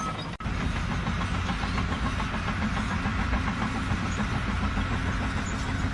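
An engine or heavy machine running steadily, starting abruptly a fraction of a second in.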